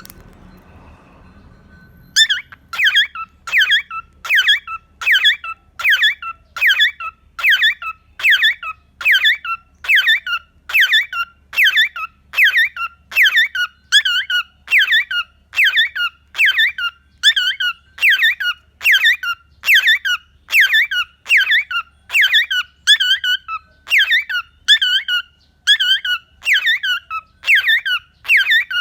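Cockatiel calling over and over: a short, high, squeaky call repeated about one and a half times a second, starting about two seconds in and keeping an even rhythm.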